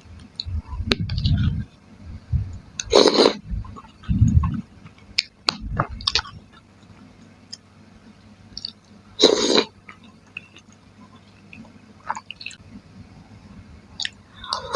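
Close-miked chewing of chicken and tofu curry, wet and squishy, with scattered small clicks and two louder mouth noises about 3 and 9 seconds in.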